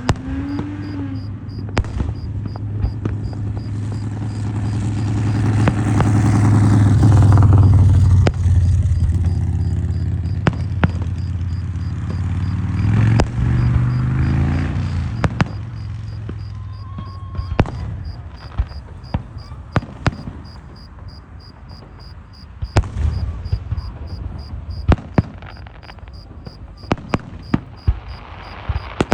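Scattered sharp pops and bangs of neighbourhood fireworks and firecrackers, coming more often in the second half. A vehicle engine passes, rising to its loudest about a quarter of the way in and then fading. Crickets chirr steadily throughout.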